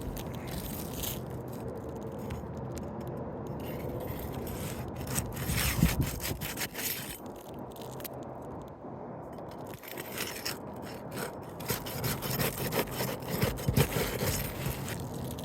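An asphalt roof shingle being worked loose by hand and tool, with irregular scraping, rubbing and crackling as the shingle is lifted off its nails.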